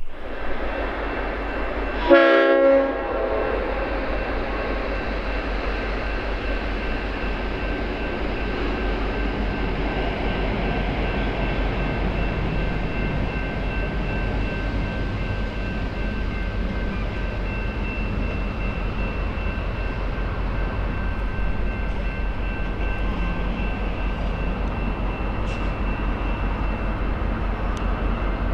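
V/Line N class diesel locomotive sounds one short horn blast about two seconds in. Its engine and the train then run steadily, with a deep low rumble.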